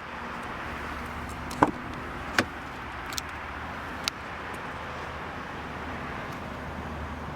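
Steady outdoor background noise with a low hum, broken by a few sharp clicks and knocks, the loudest about one and a half and two and a half seconds in.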